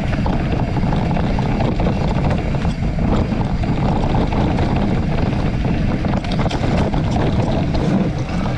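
Steady wind buffeting the microphone with a low road rumble, as heard while riding along.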